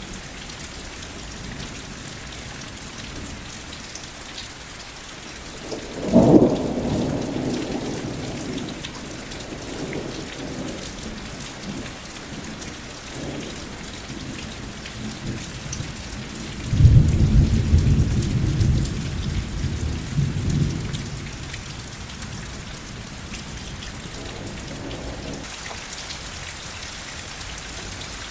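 Steady rain falling, with thunder twice: a sudden crack and rumble about six seconds in, then a longer, louder rolling rumble a few seconds past the middle.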